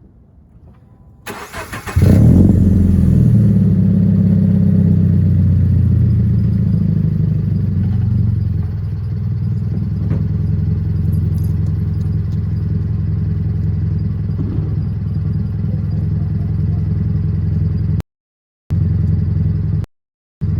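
Subaru BRZ's flat-four boxer engine through a straight-pipe muffler delete, warm-started: the starter cranks briefly about a second in, the engine catches with a loud flare at about two seconds, then settles into a steady idle. The sound cuts out twice near the end.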